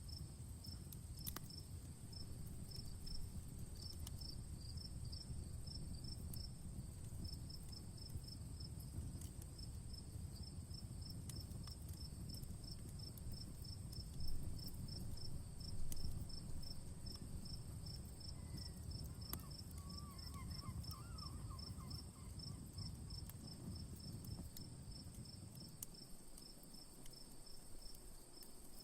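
Crickets chirping in an even, rapid rhythm over a steady high insect trill, with a low rumble and scattered faint pops of a crackling campfire; two louder pops come near the middle.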